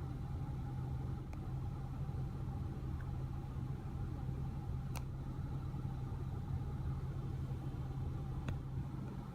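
Steady low engine hum like a car idling, with a few faint single clicks.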